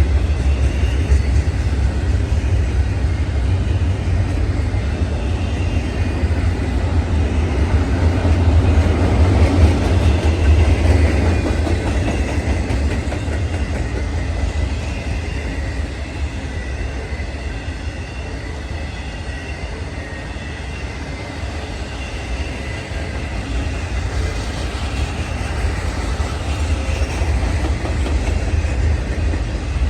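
A train rolling past, a continuous heavy rumble of wheels on rails that swells to its loudest about a third of the way in, then eases slightly.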